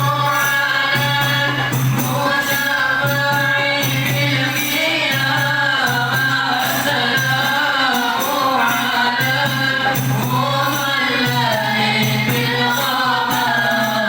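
Group of voices singing a devotional qasidah in chorus, accompanied by a steady beat of hand-struck frame drums.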